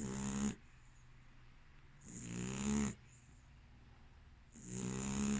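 Female American Staffordshire terrier snoring in her sleep, with a snore about every two and a half seconds, each under a second long.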